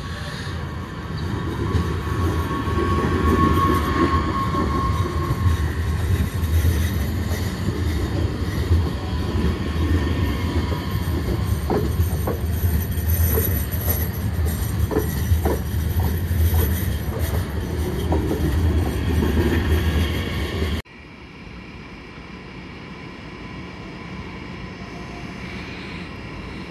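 A DB Regio class 1442 (Bombardier Talent 2) electric multiple unit passes close by with a steady low drone, and short squeaks and clicks from its wheels in the middle. The sound cuts off abruptly about three-quarters of the way through, leaving quieter station background.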